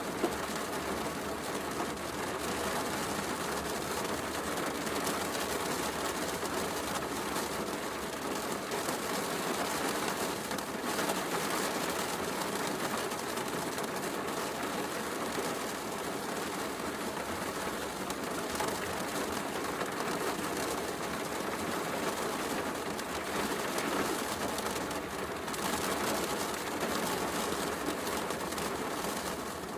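Steady heavy rain with a wood fire crackling, an occasional sharp pop standing out from the even wash of rain.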